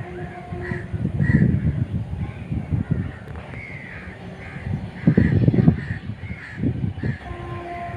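Crows cawing repeatedly. Bursts of low rumble come about a second in and again around five seconds in, and a faint steady hum stops early and comes back near the end.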